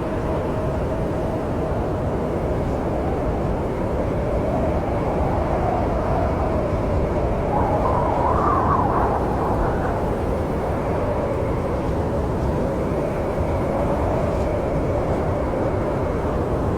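Snowstorm wind blowing steadily, a low rumble under a wavering tone that rises and swells about eight seconds in.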